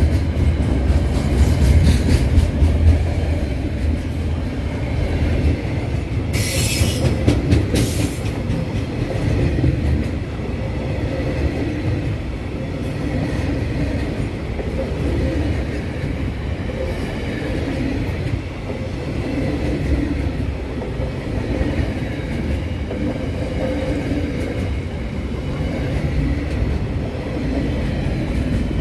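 Container wagons of a freight train rolling past close by: a steady rumble of steel wheels on the rails with clickety-clack over the rail joints, loudest in the first few seconds. There is a brief burst of higher, hissing clatter about seven seconds in.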